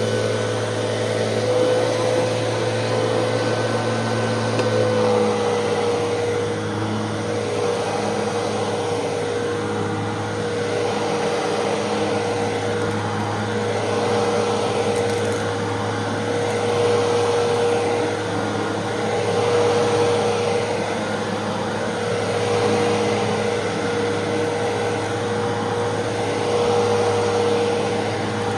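Fantom Fury 10-amp vacuum cleaner running steadily while vacuuming carpet, with a constant motor hum. Its loudness swells and dips every few seconds as it is pushed and pulled.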